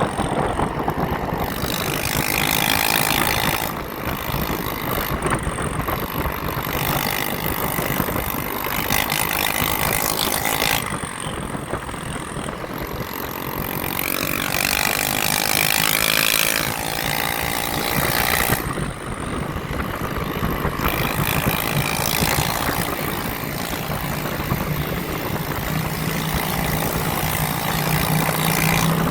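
Steady rush of wind and road noise while riding, with motor vehicles going by. A passing engine's pitch slides around the middle, and an engine's low hum rises near the end.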